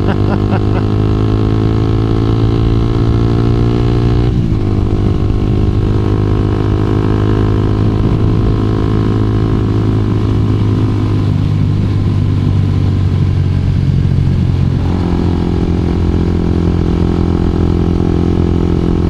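2012 Honda CBR250R's single-cylinder engine running steadily while riding. The engine note falls slightly at first, then changes abruptly about four seconds in and again near fifteen seconds.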